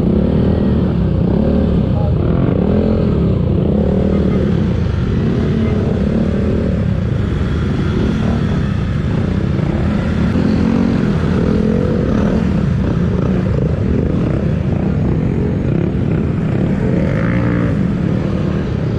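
Motorcycle engine running while riding, with steady wind and road noise on the microphone; the engine note rises and falls repeatedly.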